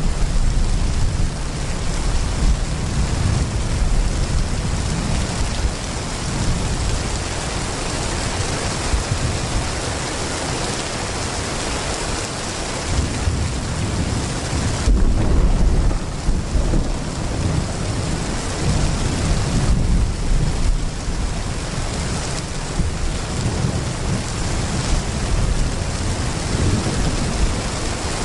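Heavy rain pouring steadily, with rolling thunder rumbling underneath, strongest about halfway through.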